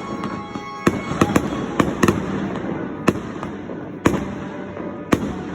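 Fireworks going off: about eight sharp bangs at irregular intervals over a continuous crackle, with faint music under them.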